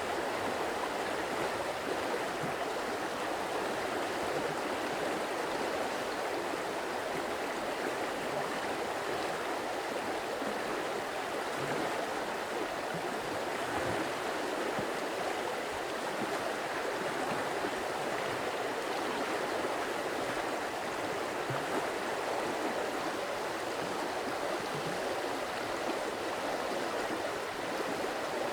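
Flowing water of a stream, running steadily with an even rush and no change.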